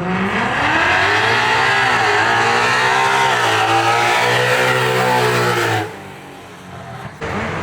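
A drag car launching and accelerating hard down the strip. The engine note climbs, then dips and climbs again at each gear change, before falling away about six seconds in. Another engine comes up loud near the end.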